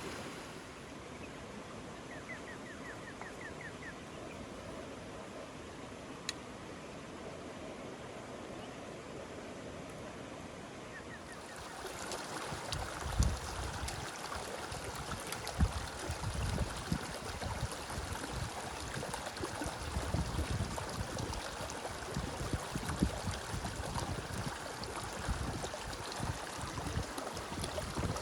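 Steady rain falling, a constant hiss. A short run of quick high chirps, like a small bird's trill, comes a couple of seconds in; from about twelve seconds in the rain grows louder and denser, with repeated low thumps.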